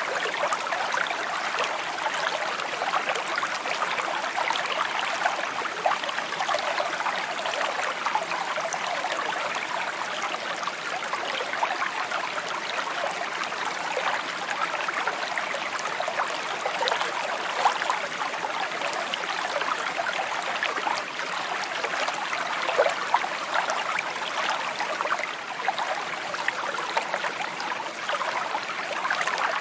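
Small stream flowing over stones, a steady babbling and trickling with constant little splashes.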